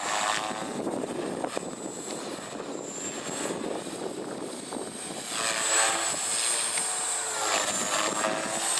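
Oxy3 Tareq Edition small electric RC helicopter flying 3D aerobatics: the rotor and motor whine rises and falls in pitch with the manoeuvres, louder from about halfway through. Strong wind rushes on the microphone.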